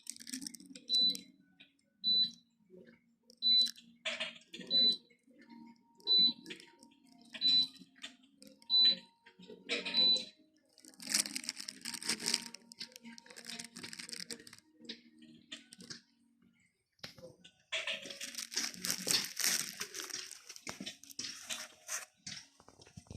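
Electric fireplace beeping eight times, about one short high beep every second and a half, over a low hum, as its controls are pressed; then two stretches of crackling noise in the second half.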